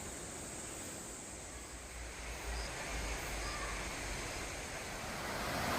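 Steady rushing noise of a mountain stream, with a couple of short faint bird calls about halfway through.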